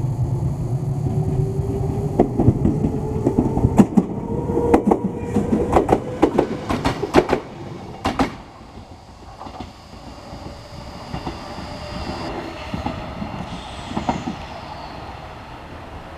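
Enshu Railway 2000-series electric train running by, its motor whine rising in pitch as it gathers speed. The wheels clatter sharply over rail joints through the first half, then the sound drops away.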